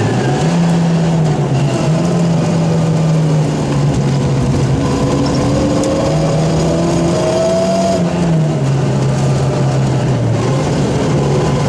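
Rally car engine heard from inside the cabin, running hard along a stage, its note stepping up and falling back several times as the driver works the throttle and gears.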